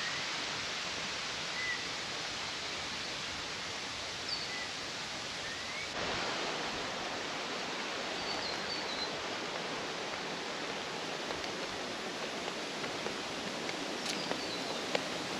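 Steady rushing of water from Millstream Falls, with a few short bird chirps over it.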